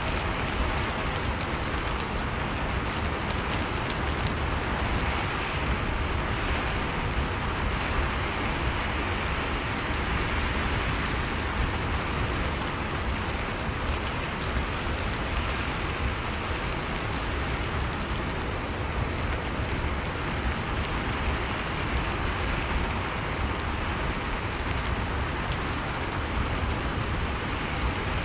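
Steady rain falling, a continuous even patter of raindrops without let-up.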